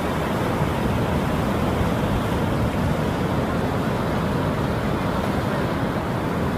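Ocean surf breaking, a steady rushing noise with no let-up.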